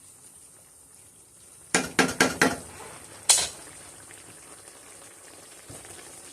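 Beef simmering in its juices in a pot with a faint steady bubbling, then a metal utensil clanks against the pot four or five times in quick succession, and once more, louder, a second or so later.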